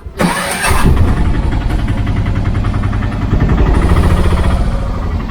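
Auto-rickshaw's small engine running with a fast, even throb. It cuts off abruptly at the end.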